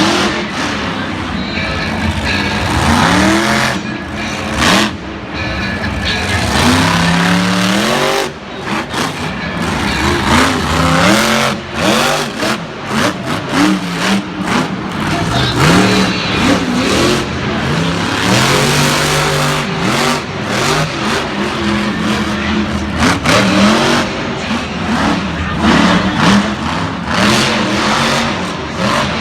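Monster truck's supercharged V8 engine revving up and falling back over and over, in quick repeated bursts, during a freestyle run.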